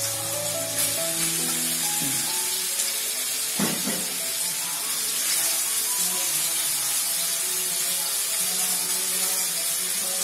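Marinated chicken pieces sizzling steadily as they fry in hot coconut oil in a pan.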